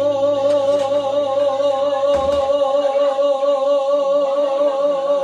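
Live Latin romantic ballad: a male singer holds one long note with vibrato over a low bass accompaniment. The bass changes note about two seconds in, and the held note fades out near the end.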